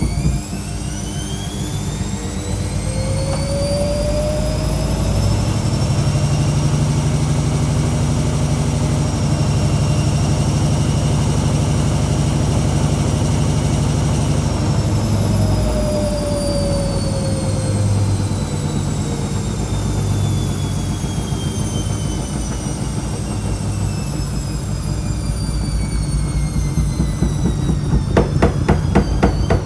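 Whirlpool washing machine in a pre-spin. The motor whine rises in pitch for about fourteen seconds as the drum speeds up, over a deep rumble, then falls steadily as the drum slows. Near the end come quick rattling knocks.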